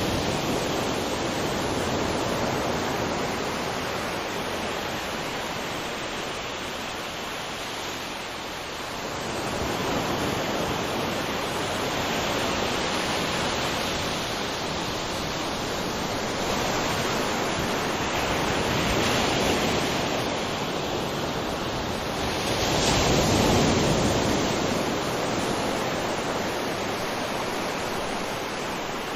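Waves breaking and washing on a beach, a steady wash of surf that swells and eases every few seconds, with its biggest swell about two-thirds of the way through.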